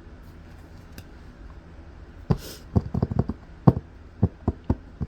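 An irregular run of light, sharp taps and knocks on a tabletop, about a dozen in quick succession starting a little over two seconds in, with a brief swish among the first of them.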